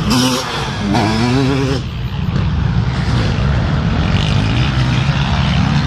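Racing motorcycle engines running, with several engine notes at once; one revs up in pitch about a second in.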